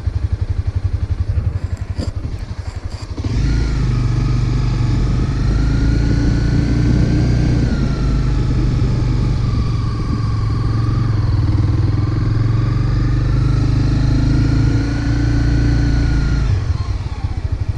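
Motorcycle engine idling, then pulling away about three seconds in and riding at low speed, its note rising and falling gently through a turn, before dropping back to idle near the end as the bike stops.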